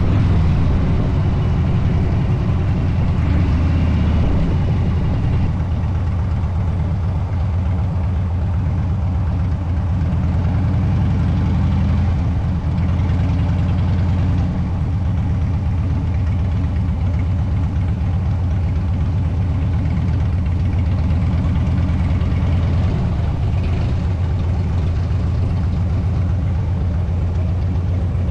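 Harley-Davidson motorcycle's V-twin engine running steadily on the road, a loud, even low drone with slight dips in level about five and fourteen seconds in.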